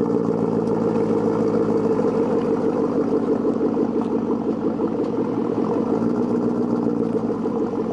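Ford Mustang GT 5.0 V8 idling steadily through its aftermarket Borla exhaust, with an even, rapid exhaust pulse and no revving.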